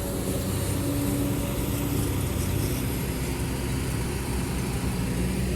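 Kobelco SK200 excavator's diesel engine running steadily while it digs into rock.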